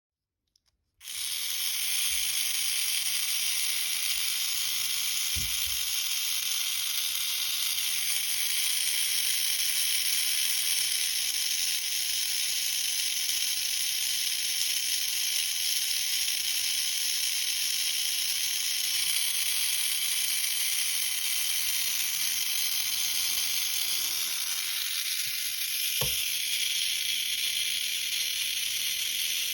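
Mini 4WD car's small electric motor and gear drive running steadily, a high-pitched buzzing whine. It starts about a second in, and its tone shifts slightly near the end.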